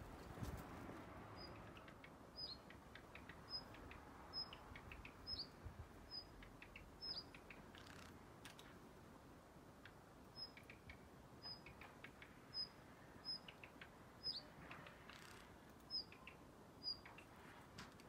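Male Daurian redstart calling: a thin high whistled note about once a second, each dropping quickly in pitch, mixed with soft clicking tacks, with a pause of about two seconds midway. The uploader takes the calls for an alarm call.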